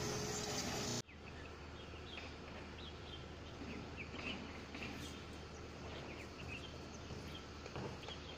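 Loud, steady street-like noise for about the first second, cut off abruptly. After that, a low background hum with scattered short bird chirps.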